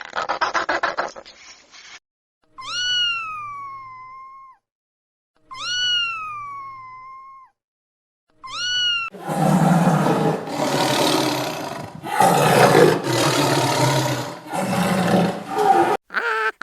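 A cat meowing three times: long drawn-out meows that rise and then slowly sink in pitch, the third one short. Then a run of loud, harsh, rasping calls in about one-second bursts.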